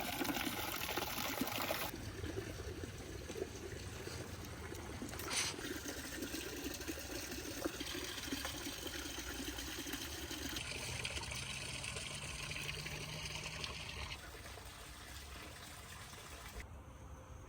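Water trickling outdoors, a steady wash of noise that changes abruptly a few times.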